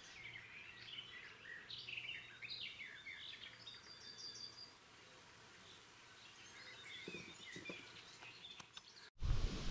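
Faint birdsong: a string of quick, short chirping notes and warbling phrases from small songbirds, thinning out midway and picking up again before cutting off suddenly near the end.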